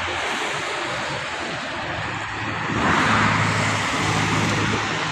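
Stream water rushing steadily. A low steady hum comes in about two seconds in and swells a second later.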